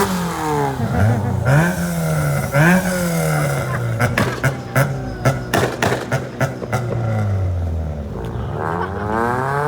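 Ford Fiesta engine revved repeatedly, its pitch rising and falling with each blip. About halfway through comes a quick run of sharp exhaust pops and bangs, then the revs settle and climb again near the end.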